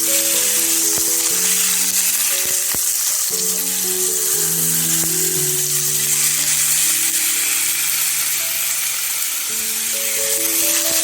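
Food sizzling in hot oil in a pan, a steady hiss, over background music with slow held notes.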